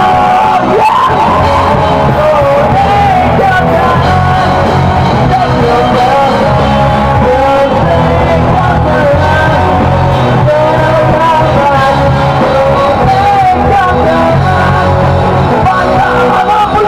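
A rock band playing live, with a lead vocal singing a wavering melody over a loud, steady band accompaniment.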